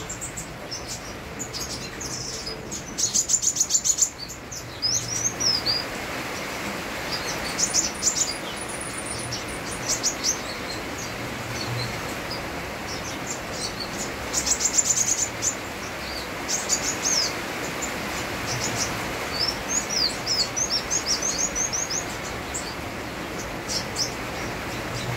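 Kolibri wulung sunbird singing vigorously in quick runs of high chirps and rapid trills, in repeated bursts. Underneath is a steady hiss of rain.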